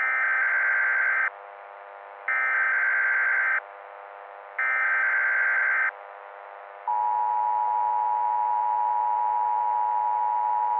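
Emergency Alert System header: three short bursts of screechy digital data, each a little over a second long with a one-second gap between them, followed about seven seconds in by the long, steady attention tone that announces an alert.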